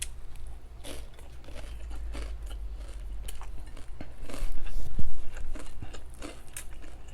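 Close-miked chewing and crunching of crisp fried dried milkfish (daing na bangus), many short crackling bites, with a louder low bump about five seconds in.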